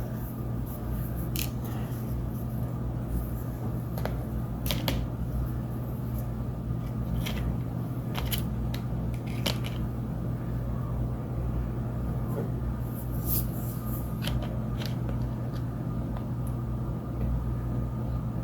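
Small sticks and twigs being handled and laid onto a paper plate: scattered light clicks and rustles at irregular moments over a steady low hum.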